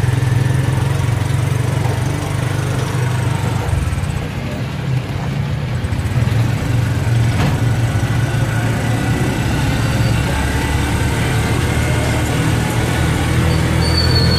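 Motorcycle engine of a tricycle running steadily under way, heard close up from the sidecar, easing off briefly about four seconds in and then picking up again.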